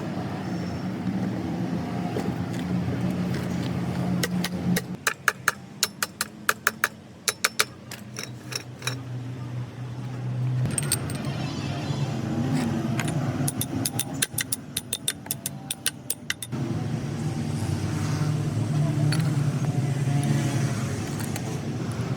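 Rapid runs of sharp metallic clicks and taps from hand tools working on truck gearbox parts, over a steady vehicle engine hum.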